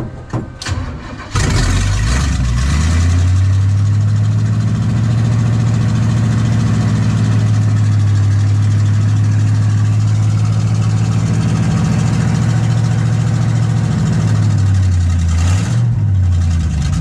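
Cold 400 cubic-inch Chevy small-block V8 in a 1966 Impala catching after brief cranking about a second in, then running at a fast idle. Near the end the revs sag and waver and the engine stalls.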